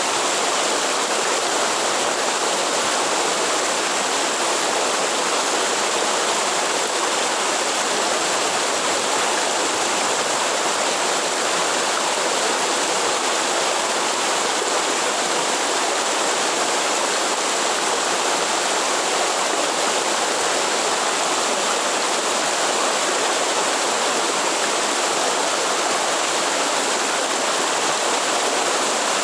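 Waterfall in the Atlantic forest, water rushing and splashing in a steady, unbroken roar.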